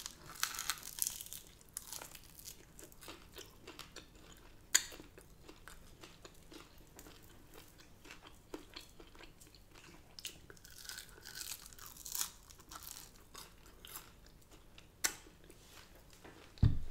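Close-up chewing and crunching of crispy chicken wings, a run of irregular crackles and bites, with a few sharper crunches about five seconds in and near the end, and a short low thump just before the end.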